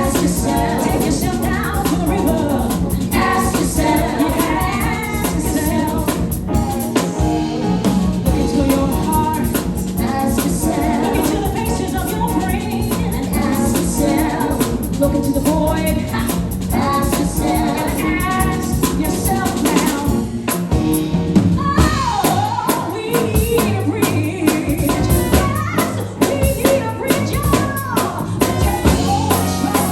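A live band playing a song with a singer over a drum kit, at full volume throughout.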